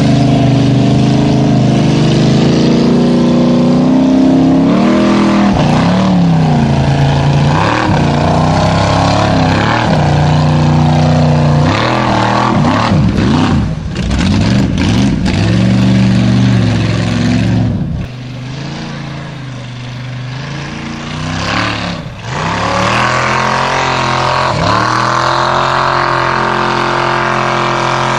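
Street-legal class Formula Offroad car's engine revving hard under heavy load on a steep dirt hill climb, its pitch repeatedly rising and falling. About two-thirds through it drops to a lower, quieter note for a few seconds, then picks up and holds a steady higher pitch.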